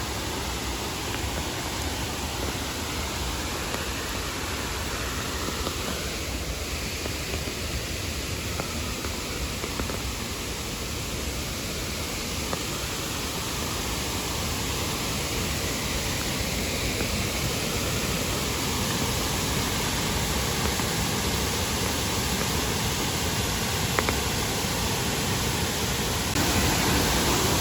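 Shifen Waterfall's falling water making a steady, even rushing noise, getting somewhat louder toward the end.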